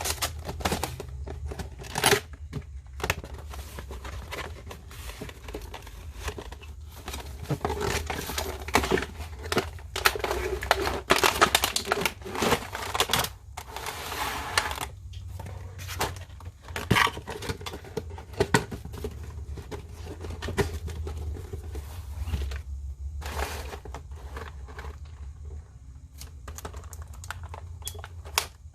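Packaging being handled and opened on an action-figure box: irregular crinkling, rustling and tearing with small clicks and taps, busiest in the middle, over a low steady hum.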